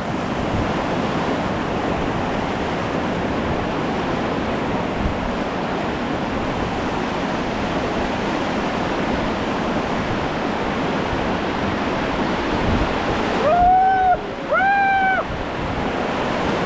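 Whitewater river rapids rushing steadily, with wind on the microphone. About 14 s in, a person gives two short high shouts.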